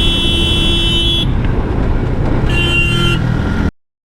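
A vehicle horn blowing twice over riding wind and road noise: one long blast ending about a second in, then a shorter one near the end. All sound cuts off suddenly just before the end.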